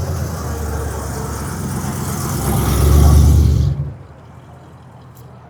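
A car engine running loud with a deep exhaust rumble, building to a peak about three seconds in and then dropping off sharply.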